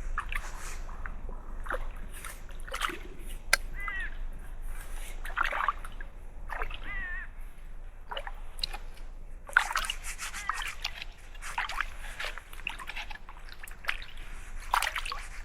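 Water sloshing and splashing in irregular bursts as a bicycle is rinsed off in open water.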